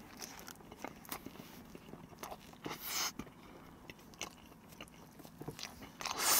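Close-miked chewing of a toast sandwich: soft crunches and small wet mouth clicks. Two louder rushes of noise come about three seconds in and at the end.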